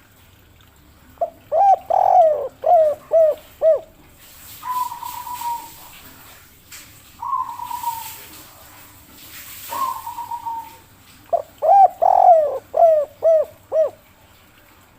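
Spotted dove (derkuku) singing its 'kuk 3' song: a quick run of several coos, then three longer, slightly falling single notes a couple of seconds apart, then the coo run again near the end.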